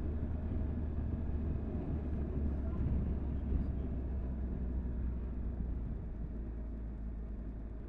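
Motorcycle on the move, heard from the rider's camera: a steady low engine drone under wind and road noise, easing off slightly near the end.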